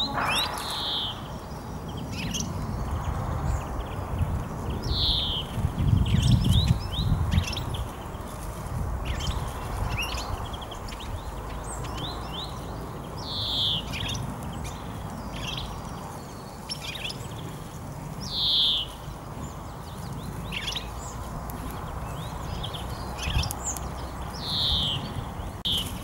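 Small songbirds calling: one clear, falling call note repeated about every five seconds, with many short chirps in between. A low rumble swells briefly about six seconds in.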